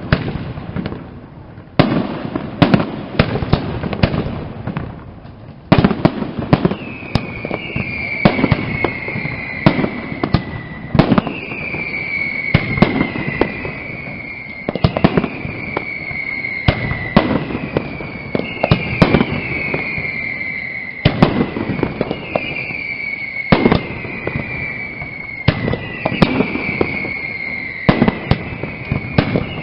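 Castillo fireworks display: a continuous run of loud shell bursts and bangs. From about six seconds in, a whistle that falls in pitch repeats roughly every two seconds over the bangs.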